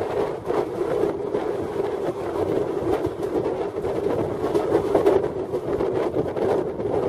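Passenger train running at speed, heard from beside a coach: a steady rumble of wheels on the rails with faint, irregular clicks.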